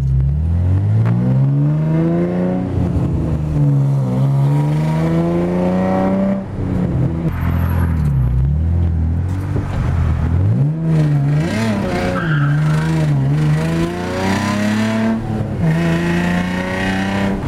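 Nissan 350Z's 3.5-litre V6 revving hard from inside the cabin, the engine note climbing and falling many times as the car is driven hard, with quick swings up and down late on.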